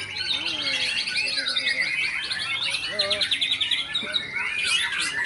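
Several songbirds singing at once: a dense mix of chirps, whistles and fast rattling trills.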